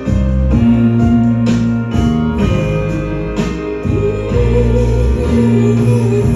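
A song played live: a singer holding long notes over guitar and a steady bass.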